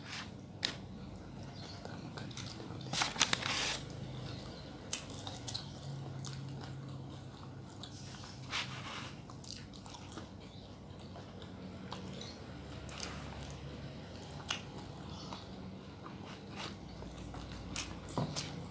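Close-up eating sounds: a person biting and chewing food, with scattered small mouth clicks and two louder crunchy bites about three and eight and a half seconds in.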